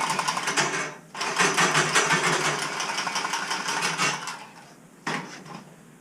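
A small power tool running hard in rapid strokes: one run breaks off about a second in, a longer one goes until about four and a half seconds in, and a short burst comes about five seconds in.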